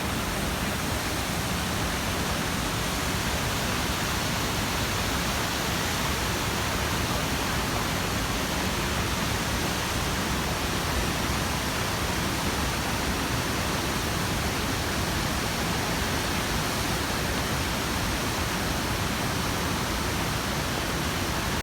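Tahquamenon Falls waterfall: a steady, unbroken rush of falling water.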